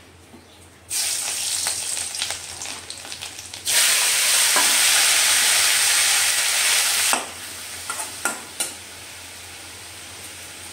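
Food sizzling in hot oil in a pan. The hiss starts about a second in, turns much louder for a few seconds, then drops away to a few scattered clicks and crackles.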